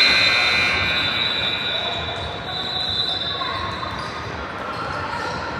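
Gym game noise: a ball bouncing on the court amid spectators' voices, with a sustained high squeal that fades about two seconds in.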